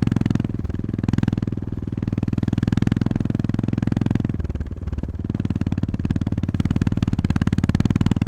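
Honda GB350S 348 cc air-cooled single-cylinder engine running under way, a steady rapid train of low exhaust thumps. The engine note eases off briefly twice, about half a second in and again around the middle, as the throttle is rolled back, then picks up again.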